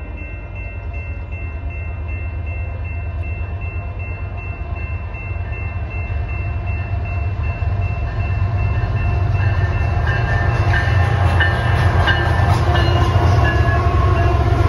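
Canadian Pacific freight train approaching at speed and passing: a horn chord held steadily as the diesel locomotive's rumble grows louder, then the locomotive and loaded covered hopper cars go by close, with wheels clattering over the rails.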